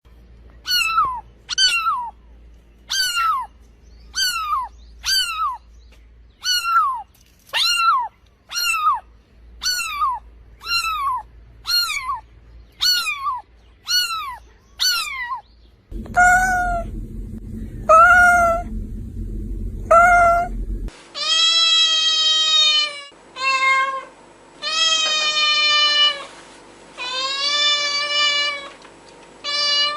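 Cats meowing. First comes a run of short, high, falling mews about one a second. Then three meows over a low hum, and from about 21 seconds in, longer, drawn-out meows.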